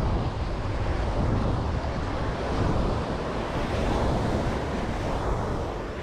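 Ocean waves washing onto the beach in a steady, swelling rush, with wind buffeting the microphone.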